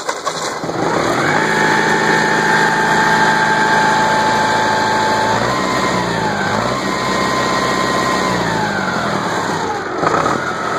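Ford tractor engine started on the push button: a brief crank, then it catches and speeds up to a steady run. Its pitch dips and recovers about six seconds in, then falls near the end as it slows.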